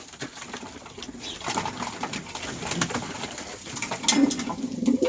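Pigeons cooing: low, wavering coos that grow stronger near the end, with a few faint clicks.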